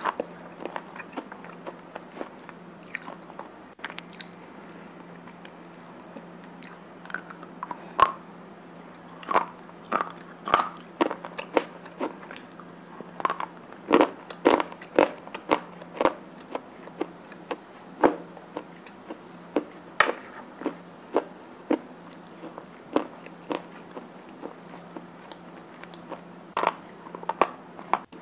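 Slate pencils being bitten and chewed close to the microphone: sharp, irregular crunches that come thickest and loudest through the middle, over a steady low hum.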